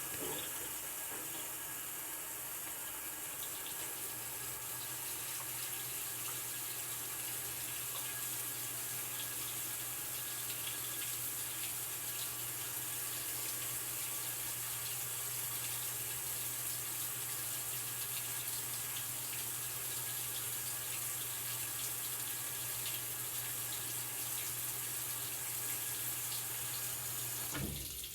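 Bravos XL top-load washing machine filling: water rushes steadily into the tub over a low steady hum, and both stop abruptly near the end.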